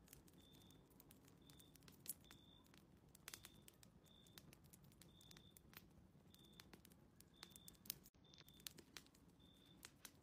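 Faint crackling of a wood fire in a fireplace, with scattered sharp pops. Short high chirps repeat about every second beneath it.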